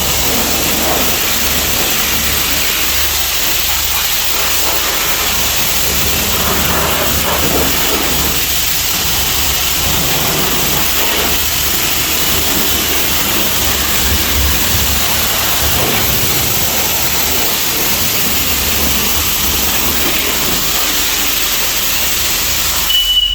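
Self-service car wash high-pressure spray wand spraying water in a steady loud hiss, which cuts off suddenly near the end as a steady high beep sounds, signalling that the paid wash time has run out.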